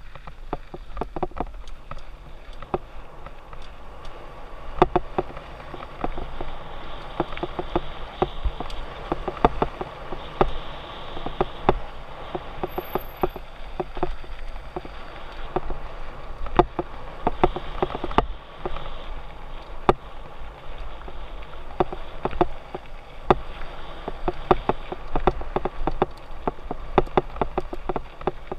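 Mountain bike rolling fast down a rocky dirt trail: tyres crunching over dirt and stones, with constant rattling clicks and knocks from the bike, and a low wind rumble on the mount.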